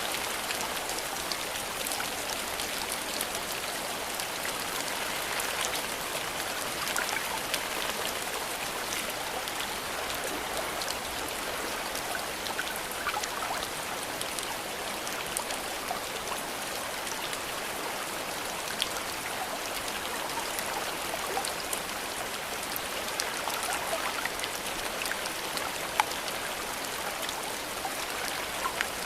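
Steady rain falling, with many separate drops pattering and ticking close by over an even hiss of rainfall.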